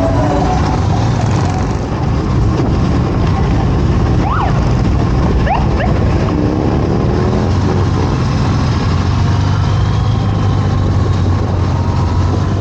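Motorcycle riding on the road: engine running steadily under heavy wind and road noise, with a few faint pitch glides in the middle. It cuts off suddenly at the end.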